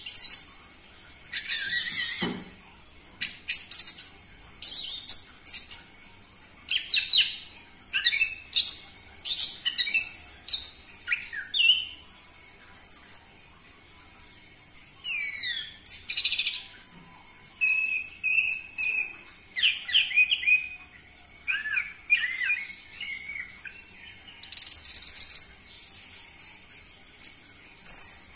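Orange-headed thrush singing: a fast, varied string of high phrases made of quick rising and falling whistled notes, each about a second long with short pauses between them.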